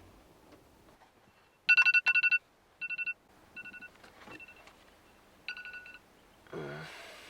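A series of short electronic beeps in irregular groups, loudest in the first two bursts, then fainter clusters.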